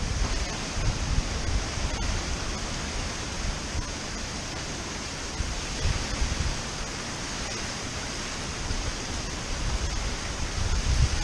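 Steady rushing of strong tropical-storm wind and ocean surf, with gusts buffeting the microphone in low rumbles that ease somewhat through the middle.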